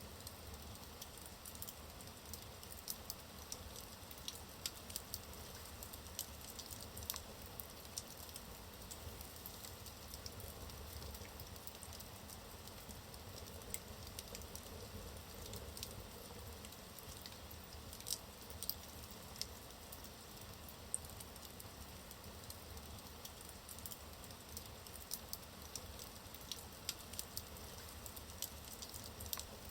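Wood fire burning in a fireplace: logs crackling with irregular sharp pops and snaps over a soft steady hiss of the flames.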